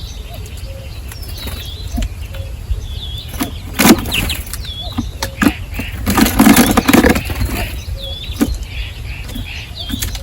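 Birds at a feeder chirping over and over in short curved calls, with scattered taps, and a louder burst of wing flapping and scuffling about six seconds in.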